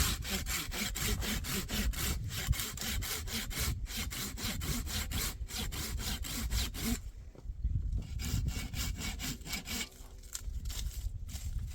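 Wood being sawn by hand with quick, even back-and-forth strokes, about four a second, with two short pauses.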